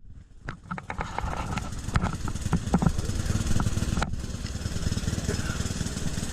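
An engine idling steadily, with scattered clicks and knocks in the first few seconds.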